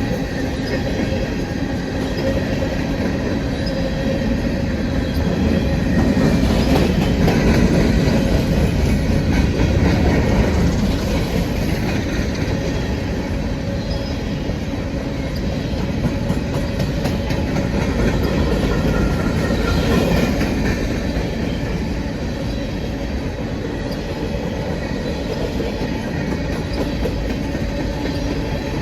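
Railroad cars rolling past close by, their steel wheels rumbling and clicking over the rail joints, with a faint thin squeal from the wheels on the rail. The rumble swells twice, about a third of the way in and again about two-thirds in.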